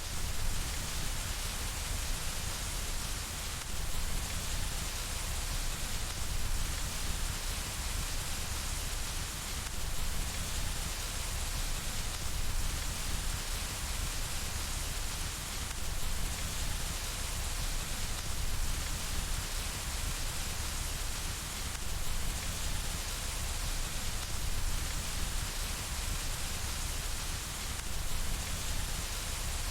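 Steady rain falling on window glass: an even, unbroken hiss with a low rumble underneath.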